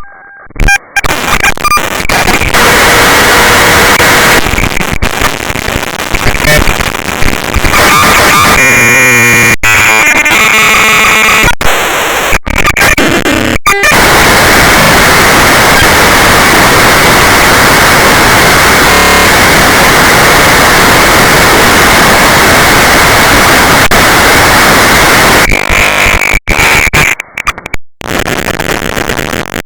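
Harsh, hard-clipped distorted noise at near full loudness: audio slowed to a tenth of its speed and heavily clipped. Abrupt cuts and dropouts break it up in the first half and again near the end, with a long unbroken stretch of dense static in the middle.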